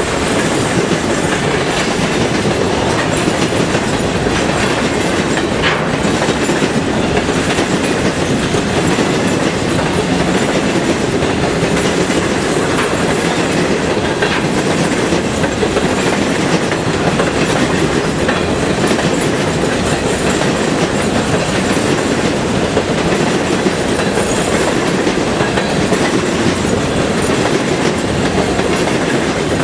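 Freight train's cars rolling steadily past, the wheels clicking over rail joints now and then.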